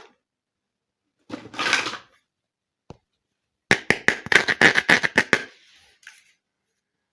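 Small plastic toy pieces being handled: a short rustle, a single click, then a quick run of about a dozen sharp clicks and rattles with a light ringing tone.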